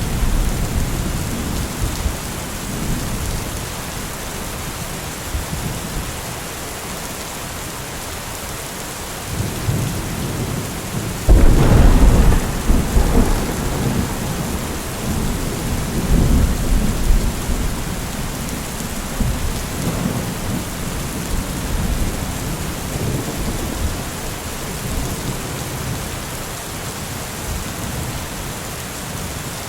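Steady rain falling, with thunder rumbling low; a sudden loud thunderclap about a third of the way in rolls on for several seconds before easing back under the rain.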